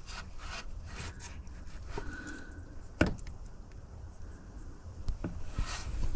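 Light handling noises from parts being worked by hand: scattered small clicks and rubbing, with one sharper click about three seconds in.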